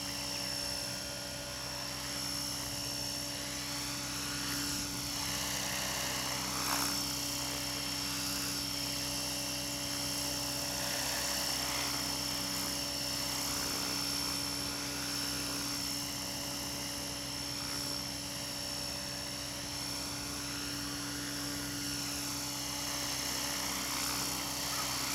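Align T-REX 600E electric RC helicopter in flight: the electric motor's whine and the main rotor running steadily, the pitch wavering slightly up and down as it maneuvers.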